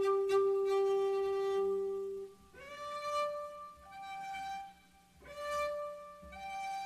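Slow solo melody on a bowed string instrument, violin-like: a long held note, then single notes that slide up into pitch, swell and fade.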